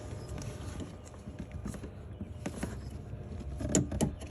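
Light clicks and knocks of hand tools and engine parts being handled under the hood, the loudest a few sharp knocks near the end.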